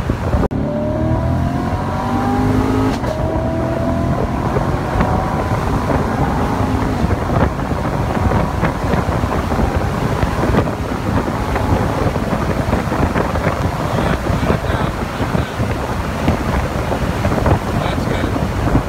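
2016 Corvette Stingray's V8 pulling hard under full acceleration, its pitch rising and stepping up a gear about three seconds in. Then steady engine, wind and road noise from the car at over 100 mph.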